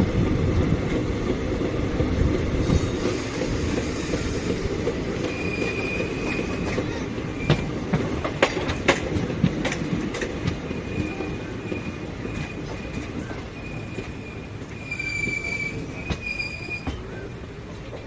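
Passenger train rolling slowly through the station with a steady rumble of wheels and coaches. A high wheel squeal comes and goes from about five seconds in, and a run of sharp rail-joint clacks falls around the middle.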